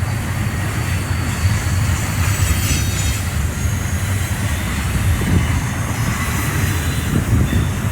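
Double-stack container freight train rolling past, a steady low rumble of wheels and railcars on the track.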